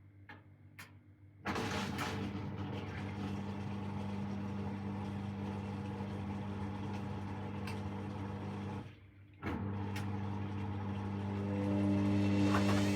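Hoover washing machine draining after the main wash: the drain pump hums steadily while the drum turns for the reverse distribution. The hum starts about a second and a half in and cuts out briefly about nine seconds in.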